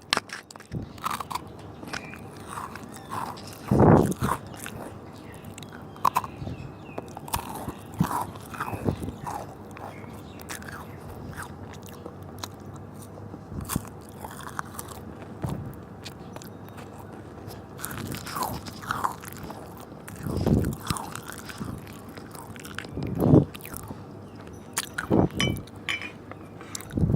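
Close-miked crunching and chewing of Oreo sandwich cookies, irregular crisp bites and mouth sounds, with a few louder, deeper bursts about four seconds in and several more near the end.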